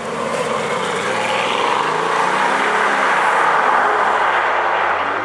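Bugatti Veyron's quad-turbocharged W16 engine accelerating hard, the engine note rising in pitch and getting louder.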